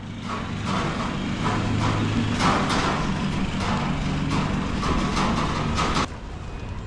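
A motor vehicle's engine running steadily, with irregular clattering and knocking over it; the sound cuts off abruptly near the end.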